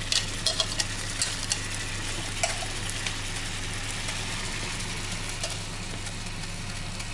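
Finely blended onion sizzling in hot sunflower oil in a frying pan, a steady hiss. In the first couple of seconds a few light clicks of a utensil knocking the last onion out of a glass bowl against the pan.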